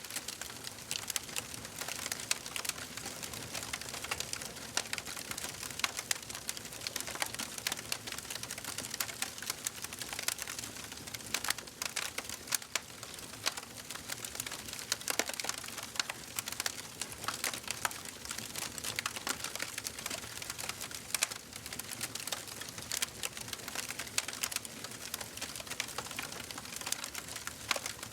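Wood fire burning in a fireplace: a steady hiss of flames with dense, irregular crackles and pops from the burning logs.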